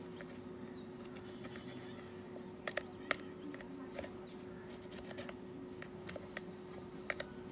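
Scattered light clicks and taps of small hard objects, a few louder ones, over a steady electrical hum.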